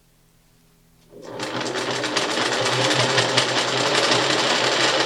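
1968 Singer Model 628 Touch & Sew Deluxe zig-zag sewing machine starting up about a second in, speeding up, then running steadily as it stitches through denim, with a fast, even needle rattle.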